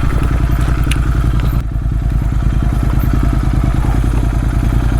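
Royal Enfield Interceptor 650's parallel-twin engine running steadily at low speed on a rough, rocky track, with a few short knocks and rattles from the bike.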